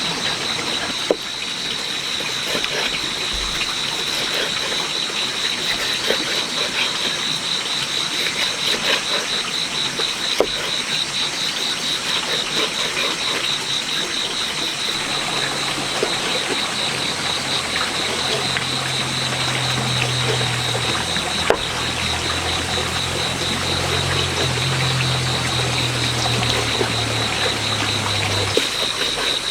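Water trickling and splashing, with scattered small clicks, over a steady high-pitched drone; a low hum comes in about halfway through.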